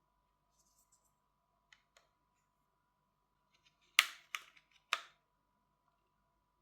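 A few faint ticks, then three sharp plastic clicks about four to five seconds in, as an opening tool is worked around the seam of a Motorola G60's back cover to pry it off.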